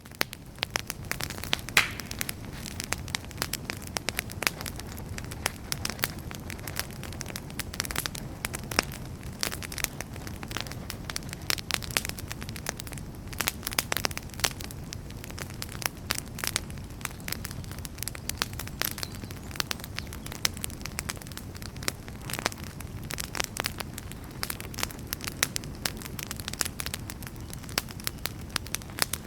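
Campfire crackling: dense, irregular pops and snaps over a steady low rush of burning flames, with one sharper snap about two seconds in.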